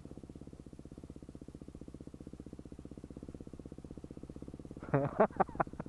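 Dirt bike engine running steadily at low speed, an even rapid pulse. Near the end comes a short burst of louder, sharper sounds.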